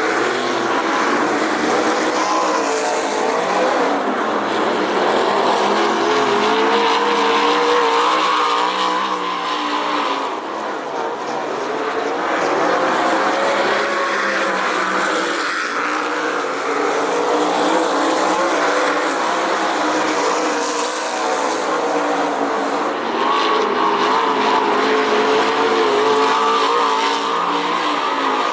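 Wingless sprint car V8 engines at racing speed, loud and continuous, the engine note repeatedly rising and falling as the cars go round the track.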